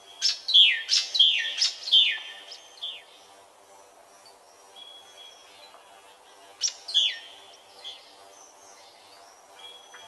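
A bird calling: a quick run of about five loud notes, each sweeping sharply down in pitch, in the first three seconds, then two more around seven seconds in.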